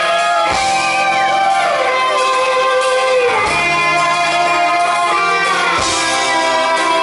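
Rock band playing live, led by electric guitar holding long notes that bend up and down in pitch over a steady backing.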